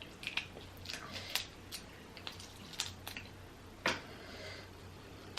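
Close-up eating sounds from a boiled shrimp: scattered soft wet clicks, squishes and smacks of sucking and chewing, with one sharper click nearly four seconds in. A faint steady low hum sits underneath.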